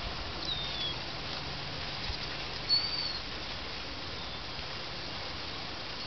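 Steady outdoor background hiss with two short, high bird chirps: a falling one about half a second in and another near the middle.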